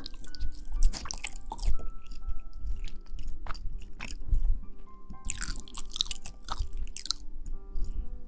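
Close-miked ASMR rustling: irregular crackles and crunchy, crinkly bursts, some sharp and hissy, over soft background music.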